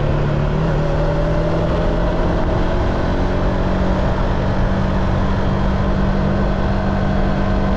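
Car engine running steadily with road rumble while driving, the engine note stepping up slightly about half a second in.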